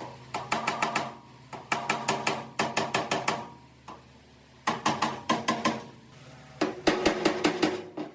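Quick runs of hammer blows on sheet steel, about five to seven strikes a second with short pauses between runs, each blow ringing briefly.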